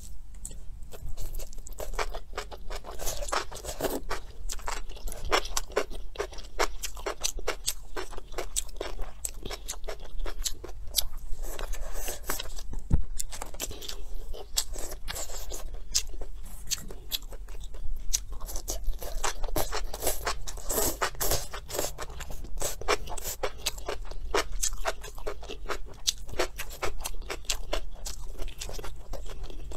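A person chewing and biting food close to the microphone, with many small wet, smacking mouth clicks and crunches. The food is braised enoki mushrooms and braised pork trotter.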